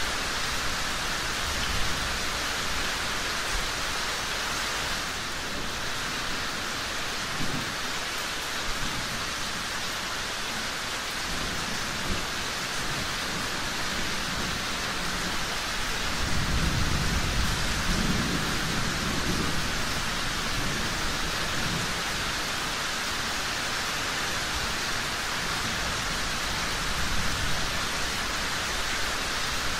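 Steady rain falling, with a low rumble of thunder about halfway through and a few short sharp pops.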